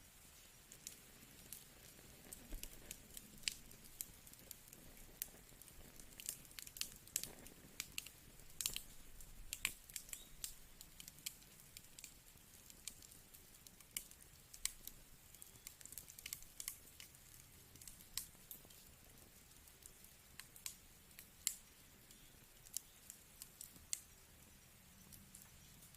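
Faint crackling of a wood fire in a fireplace: irregular sharp pops and snaps, several a second at times, over a soft steady hiss.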